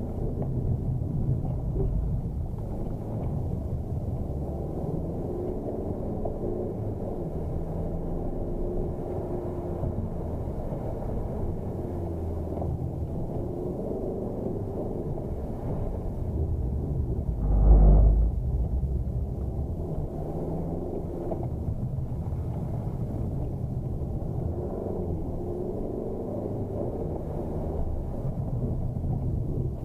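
Ford Focus engine heard from inside the cabin while the car is driven hard through a slalom, the revs rising and falling with throttle and gear changes over road noise. About 18 seconds in a loud low thump stands out.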